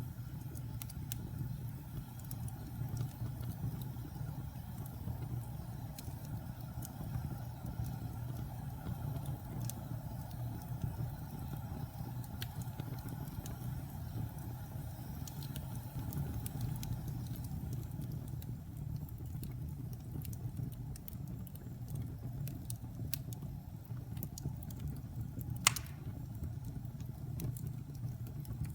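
Wood fire burning in a fireplace: a steady low rumble of flames with scattered light crackles, and one sharp pop near the end.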